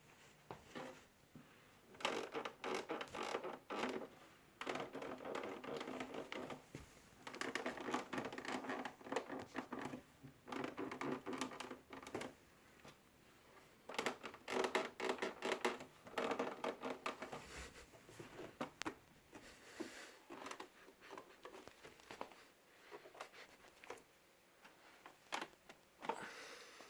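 The Neo2t creaking and squeaking, again and again, in rasping bursts of one to three seconds with short pauses between. This is the creak that the video sets out to show.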